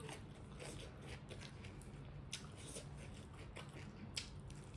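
Close-miked chewing, with soft wet mouth clicks and smacks and a few sharper clicks, the sharpest near the end.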